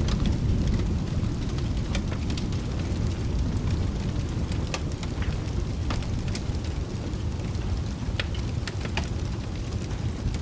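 Steady rain with a deep, low rumble of thunder that slowly dies down, and scattered sharp crackles and pops from a wood fire.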